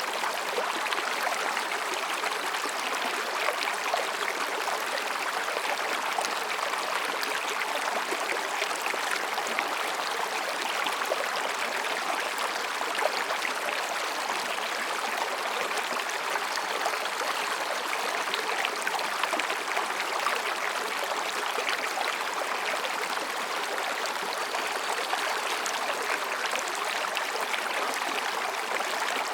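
Mountain stream babbling over and between rocks: a steady rushing flow with many small splashes and gurgles throughout.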